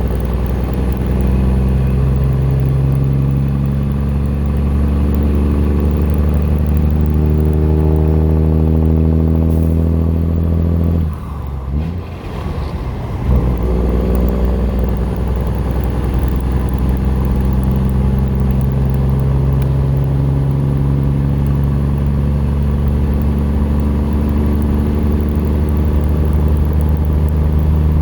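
Cummins ISX inline-six diesel with a straight-piped exhaust, heard from inside the truck cab, pulling with its pitch slowly rising and a thin high turbocharger whine over the top. About halfway through the engine note drops away for a couple of seconds, then it pulls and climbs again as the turbo whine rises.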